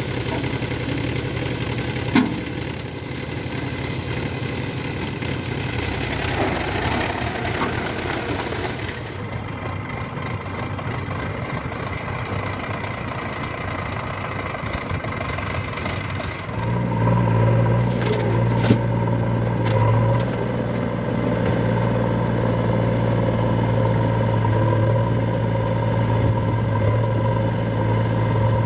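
Diesel engines of a backhoe loader and farm tractors running at a work site. About halfway through, a louder, steady engine tone comes in and holds to the end.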